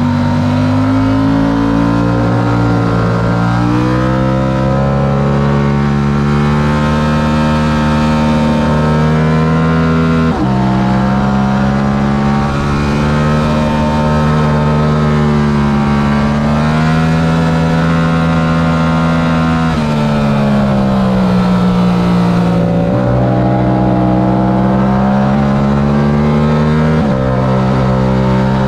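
Yamaha R7's 689 cc parallel-twin engine at racing speed, heard onboard: its pitch rises and falls through the corners, with abrupt steps in pitch at gear changes about a third of the way in and twice near the end.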